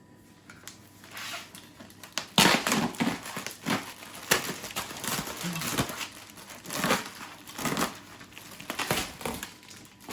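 Irregular crinkling and crunching handling noises, a string of bursts of varying loudness with the loudest about two and a half seconds in.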